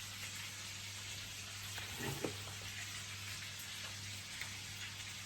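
Food sizzling steadily in a frying pan, with a short voice-like sound about two seconds in.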